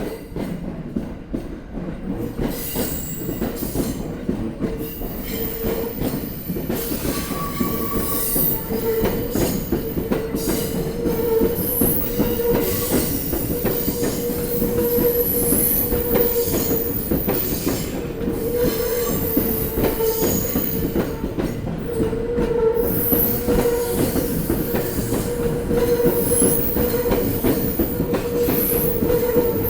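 A Sobu Line electric train running over rail joints, its wheels knocking loudly and irregularly at the joints over a steady tone that holds throughout. It starts abruptly as the train comes in and grows louder toward the middle.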